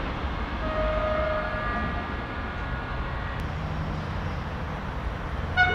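Railway train running through the station: a steady low rumble, with a brief high tone about a second in and another short one near the end.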